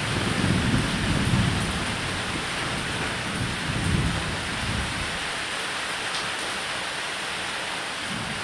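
Steady heavy rain on a roof with rolling thunder: deep rumbles swell at the start and again about three to four seconds in, under the constant hiss of the rain.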